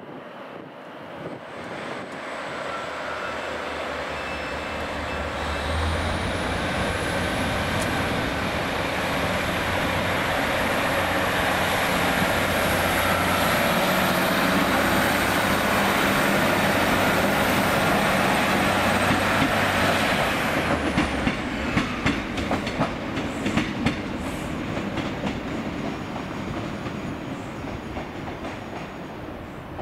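A train running through the station, growing louder with a high whine that climbs in pitch. The whine cuts off about twenty seconds in, and the wheels then clack over the rail joints as the sound slowly fades.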